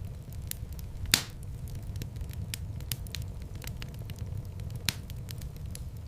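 Wood fire in a fireplace crackling over a steady low rumble of flames, with frequent small clicks and two loud pops, one about a second in and one near the end.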